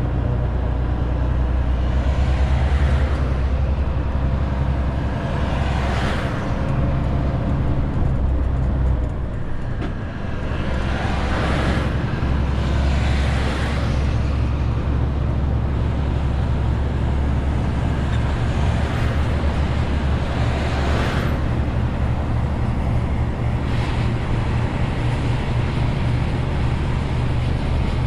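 Renault T520 truck's six-cylinder diesel engine running steadily under a 40-tonne load, with road noise. The engine sound dips briefly about ten seconds in, and several short hissing swells rise and fade.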